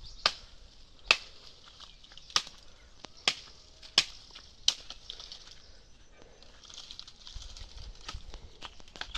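Dry firewood being broken or cut: about six sharp cracks at uneven intervals in the first five seconds, over a faint steady high hiss.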